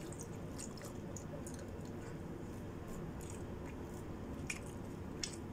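A person chewing a mouthful of food: faint, scattered wet mouth clicks and smacks, a couple a little sharper near the end.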